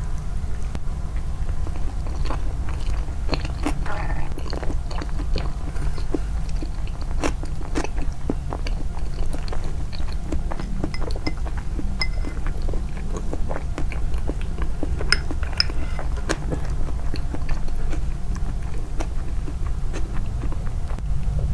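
Close-miked chewing of crunchy food: irregular crisp crunches and small mouth clicks, over a steady low hum.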